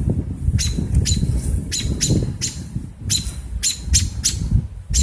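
Female American robin giving sharp, high alarm calls, about a dozen in quick runs, while defending her nest against a person close by.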